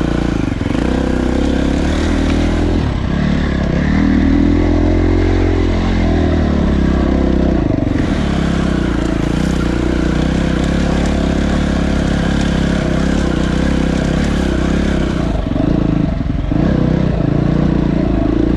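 Dirt bike engine running while riding a trail, the revs rising and falling as the rider works the throttle, with a swell a few seconds in and a couple of brief drops near the end.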